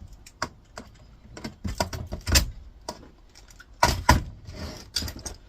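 Irregular sharp clicks, knocks and rattles of a flatscreen monitor's metal chassis and wiring being worked with wire cutters. The loudest knocks come about two and a half and four seconds in.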